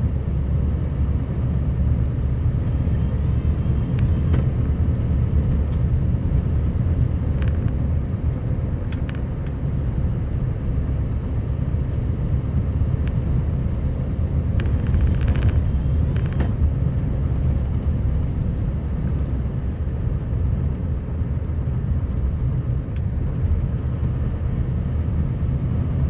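Scania R560 plow truck's V8 diesel running steadily under load while pushing snow, a deep even rumble, with a few brief clicks and a short spell of rattling about halfway through.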